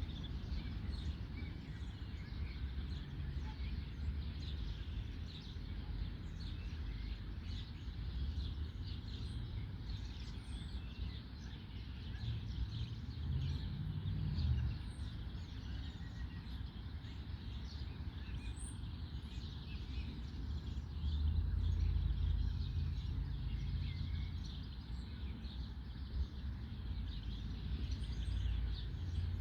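Several songbirds singing in trees, many short chirps and trills throughout, over a steady low rumble that swells twice, about halfway through and again later.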